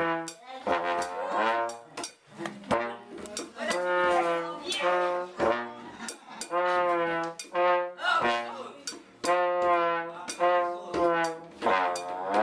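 Music led by a brass instrument, trombone-like, playing a melody of short held notes with a few sliding notes and sharp attacks between them.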